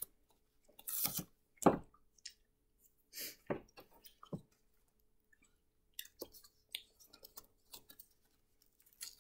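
Intermittent mouth sounds of a tough, chewy gummy candy being chewed, mixed with small clicks and crinkles from a plastic slime container and its wrapper being handled. A few louder sounds come in the first half, and the sharpest is about a second and a half in.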